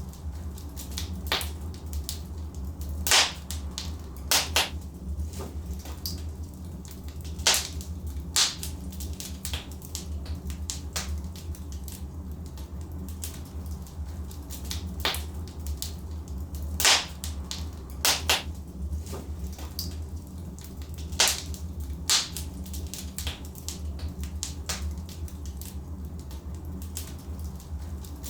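Wood logs burning in a fireplace, crackling with sharp irregular pops every second or two over a steady low rumble.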